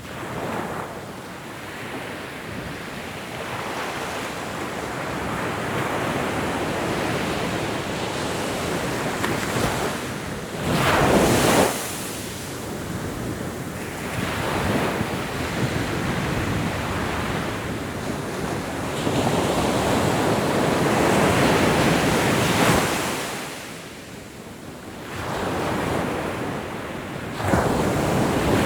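Ocean waves breaking and washing up on a shore, the surf swelling and fading as each wave comes in. A short, sharp break comes about eleven seconds in, a long loud run of surf follows later, and another wave breaks near the end.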